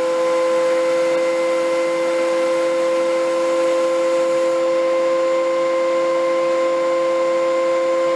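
A woodworking machine's motor, just up to speed, running freely with a steady, unchanging whine.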